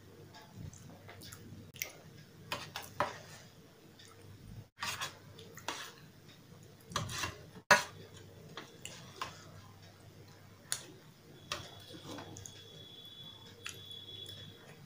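Close-miked eating sounds: a spoon scraping and clinking in a steel thali of potato curry, with wet mouth clicks and chewing. The taps and clicks come irregularly, the sharpest about halfway through.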